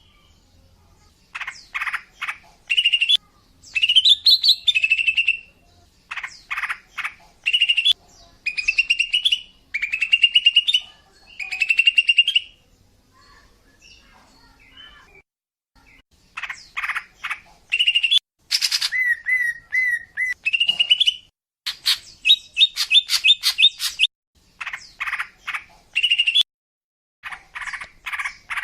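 Female cucak ijo (leafbird) singing in short phrases of rapid, chattering notes, each about a second long, with a quieter stretch near the middle. A song used to lure males.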